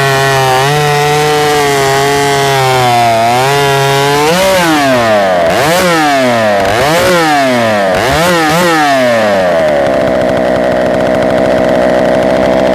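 A large 90cc-class professional two-stroke chainsaw running loud. For its first few seconds it holds a steady, slightly wavering note under load. Then it is revved up and down about four times and held at a steady high pitch near the end.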